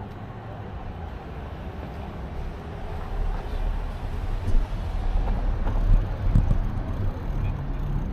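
Wind buffeting the microphone of a moving bicycle, an uneven low rumble that grows louder about three seconds in.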